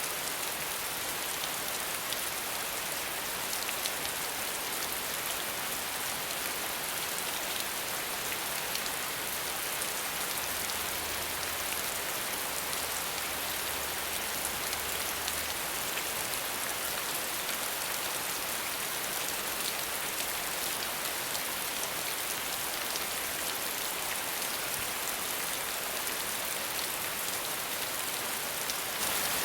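Steady rain falling, an even wash of sound with many small drop ticks and no thunder.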